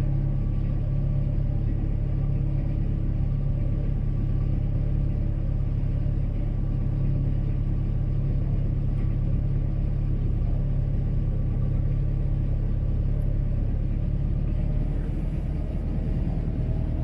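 Boat engine running steadily with a low hum, its note shifting slightly near the end.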